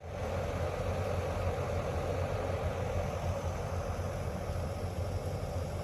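Steady hum of a car's engine and road noise heard from inside the cabin, starting abruptly and running evenly without change.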